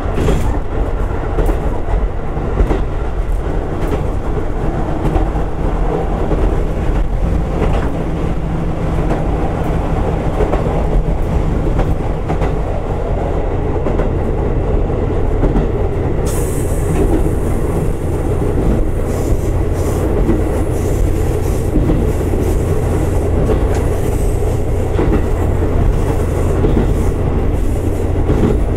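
Diesel railcar running along the line, heard from on board: a steady low engine and rolling drone with occasional clicks from the rails. About halfway through, a thin high hiss joins in.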